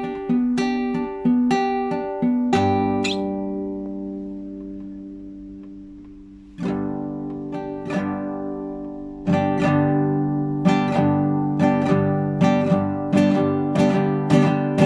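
Solo classical guitar improvising: a run of plucked notes, then a chord about two and a half seconds in, left to ring and fade for about four seconds. New plucked chords and notes then pick up again at a steady pulse.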